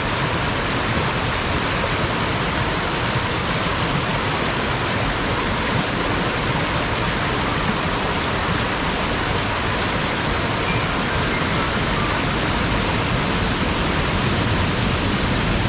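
Water of Umakado Falls pouring steadily, an even rushing noise with no breaks.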